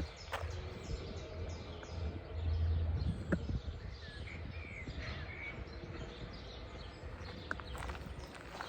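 Birds chirping and calling over a steady low rumble, with a few faint knocks.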